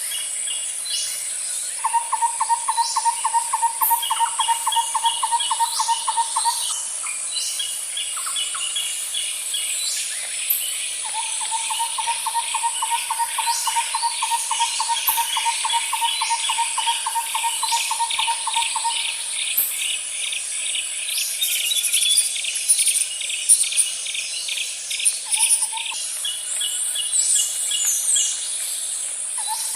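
Nature ambience of insects and birds: a steady high insect buzz, long fast trills at a low pitch that run for several seconds at a time and stop, a quicker pulsing chirp series higher up, and scattered short bird chirps.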